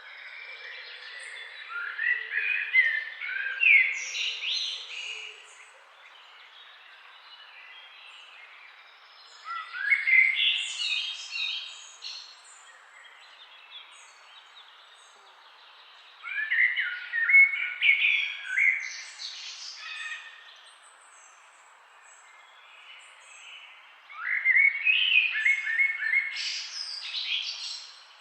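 Songbird singing: four bursts of quick, rising chirps, each about three seconds long with pauses of several seconds between them, over a faint steady background hiss.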